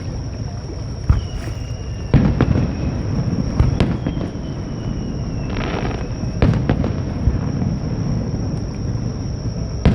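Fireworks display: aerial shells bursting with sharp booms about five times, over a continuous low rumble. Two long thin whistles drift slightly down in pitch, and a brief crackle comes about six seconds in.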